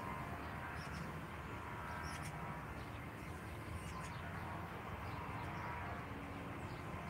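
Outdoor morning ambience: a few faint, short bird chirps over a steady low background rumble.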